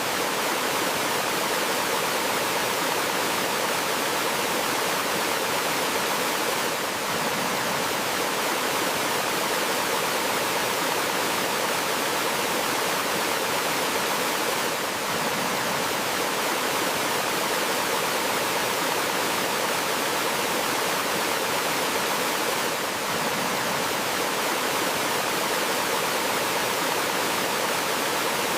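Steady, even rush of flowing water from a stream or small waterfall.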